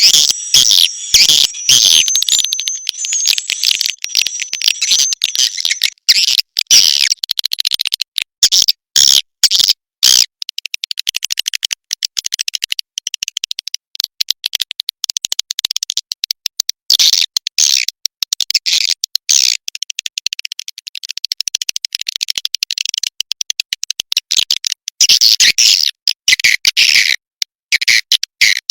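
Swiftlet calls: a dense, rapid twittering of many high chirps and clicks, a compiled lure call played to draw swiftlets into a nesting house. A thin high whistle runs under the chirps for the first few seconds.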